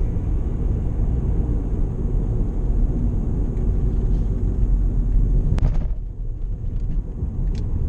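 Car tyres rumbling over rough, broken-up pavement, heard from inside the car, with one sharp knock about five and a half seconds in.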